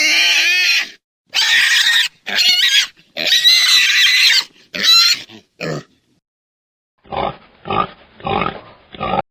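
Pig squealing in a run of high-pitched cries for about six seconds, then, after a pause, four short grunts near the end.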